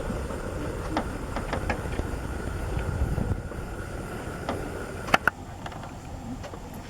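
A vehicle engine running with a low, steady rumble, with a few sharp knocks; the loudest knock comes about five seconds in, just as a faint high steady whine stops.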